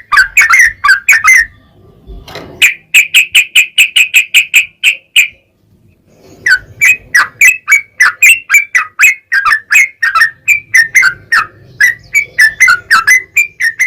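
Yellow-vented bulbul (trucukan) singing in long, fast runs of short repeated chirping notes, several a second, broken by two short pauses.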